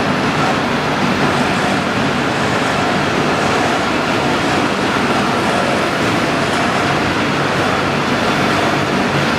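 Steady industrial machinery noise: a constant rush with a faint, even hum and whine, unchanging throughout.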